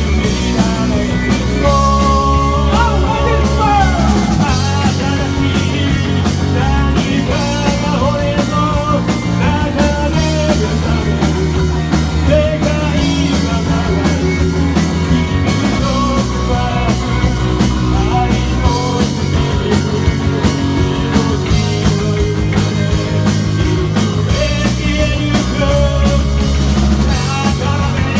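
A rock band playing live, with drums, bass, electric guitar and a lead vocal.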